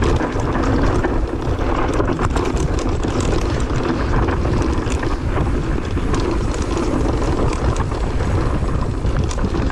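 Mountain bike running downhill over a rough dirt trail, with steady rattling and tyre noise under heavy wind buffeting on the microphone.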